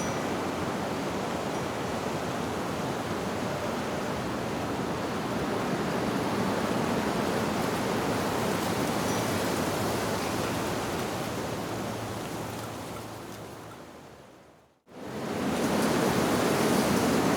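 Steady rushing of wind through tree leaves, an even hiss with no distinct events. About 15 seconds in it fades away to a brief silence and then comes straight back, the seam where the recording loops.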